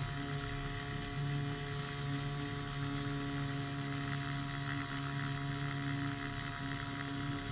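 Small engine of a powered hang glider running at a steady drone in flight, its pitch unchanging, over a constant rush of wind.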